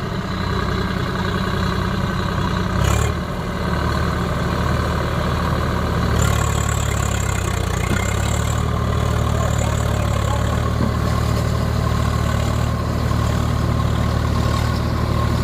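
Heavy diesel machinery engine running steadily at low revs, growing a little louder about four seconds in and again around six seconds in, with a couple of brief clicks early on.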